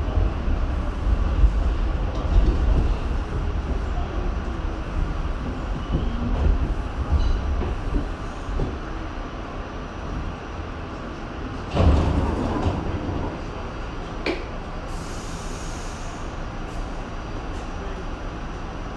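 R68 subway train running on the track, a steady low rumble that eases about halfway through. A louder clatter comes about twelve seconds in, and a brief hiss a few seconds later.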